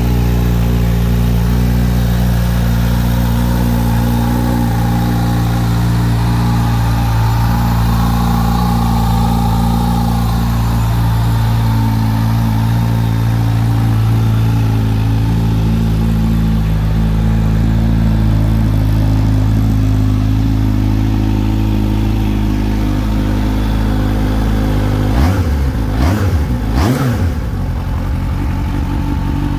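Kawasaki Z H2's supercharged inline-four engine idling steadily, then blipped twice near the end, the pitch rising and falling back each time.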